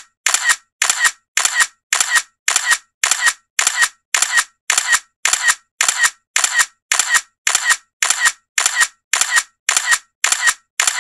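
Camera shutter clicks repeating evenly about twice a second, each a short double snap with silence between, like a shutter sound effect looped in an edit.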